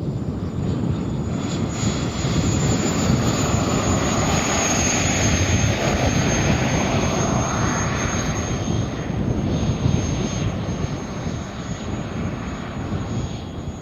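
Twin JetCat P120 model gas turbines of a quarter-scale jet passing by: a high turbine whine over a rushing roar that swells, then fades, the whine dropping slowly in pitch as the jet goes past.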